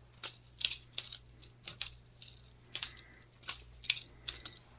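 Boker Plus balisong butterfly knife being flipped: a run of light metallic clicks and clacks as the handles swing around and knock together, about a dozen at an uneven pace.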